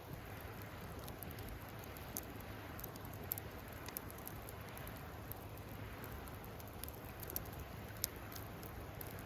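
Wood campfire burning, with scattered sharp crackles and pops over a steady hiss. The loudest pop comes about eight seconds in.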